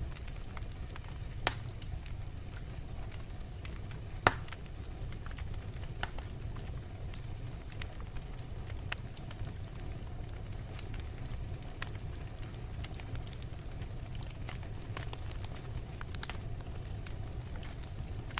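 Wood fire burning in a fireplace: logs crackling with scattered sharp pops over a steady low rumble of the flames, the loudest pop about four seconds in.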